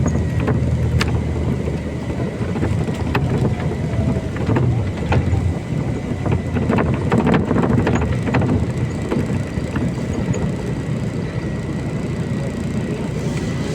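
Ride inside a MAZ-203 low-floor city bus under way: a steady engine and road rumble with a thin, steady high tone. A run of clicks and rattles from the bus's body and fittings comes through the middle.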